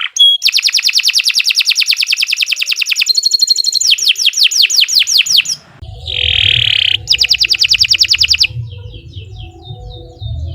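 Domestic canary singing a long, continuous song: phrases of fast repeated trill notes, broken by a held high whistle about 3 s in and a harsh buzzy phrase about 6 s in, then softer scattered notes near the end.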